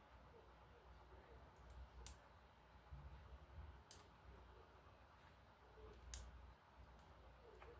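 Lego pieces clicking together as a model is built by hand: a few sharp, separate clicks a second or two apart, with low handling noise in between.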